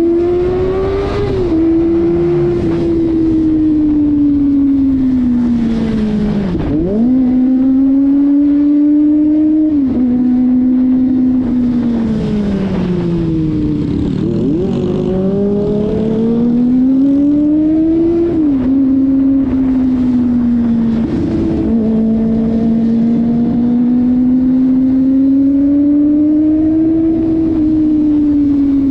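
Kawasaki ZX-25RR's 250 cc inline-four engine under way, its note climbing with the throttle and dropping suddenly at each gear change, several times over; twice it dips low and climbs back as the bike slows and picks up again.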